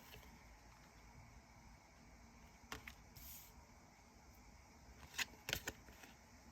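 Near silence: low room noise with a few faint, short clicks, one a little under three seconds in and a small cluster of them near the end.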